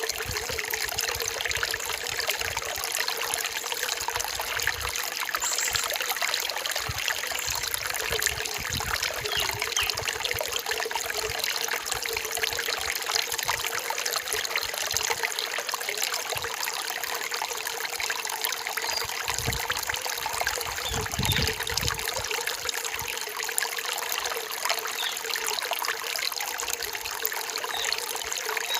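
A forest stream trickling and splashing over rocks, steady throughout, with a few brief low thuds around two-thirds of the way in.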